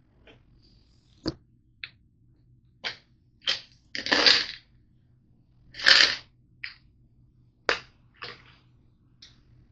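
Irregular sharp clicks and taps with a few short scraping or crunching noises, about a dozen in all; the longest come about four and six seconds in.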